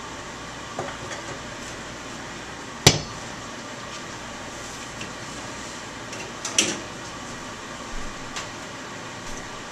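Metal kitchen utensils knocking against a wok and fryer: a few sharp clanks, the loudest about three seconds in and another a little past the middle, over a steady background hiss.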